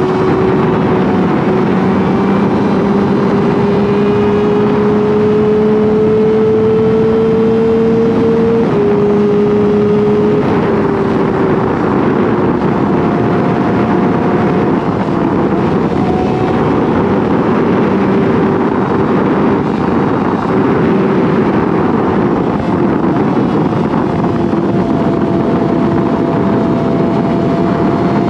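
Yamaha R6's inline-four engine running at highway speed, its pitch climbing slowly, then stepping down twice in quick succession about nine and ten seconds in, before holding fairly steady. Heavy wind rush on the microphone runs under the engine.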